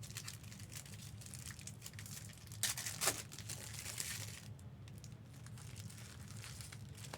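Plastic-foil trading card pack wrappers crinkling as they are handled and torn open, with a louder tearing burst about two and a half to three seconds in.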